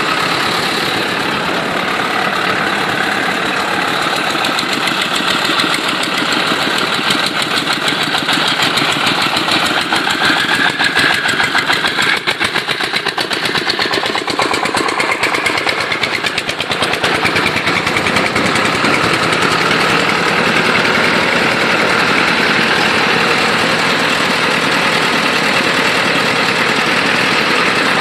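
A small engine running steadily with a fast, even pulsing, dipping slightly about halfway through.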